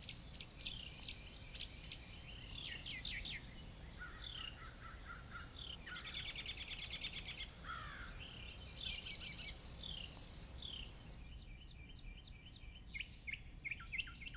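Several songbirds chirping and calling, with a fast even trill in the middle, over a steady high tone that cuts off abruptly about eleven seconds in.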